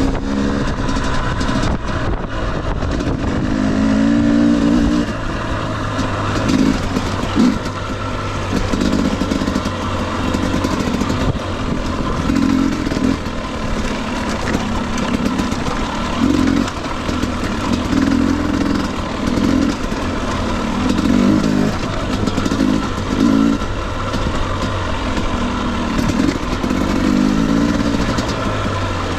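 2021 Husqvarna TE250i two-stroke single-cylinder dirt bike engine running under the rider's throttle, revving up and dropping back again and again in short bursts, with rough riding noise throughout.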